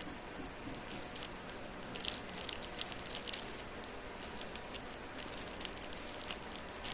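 Scattered clicks and crinkles of plastic parts being handled, with several very short, faint high beeps in between.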